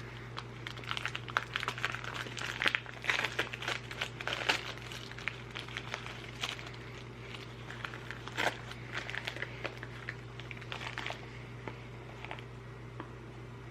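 Wrapping or packaging crinkling and rustling as a small advent gift is unwrapped by hand, in a busy run of crackles that thins out near the end.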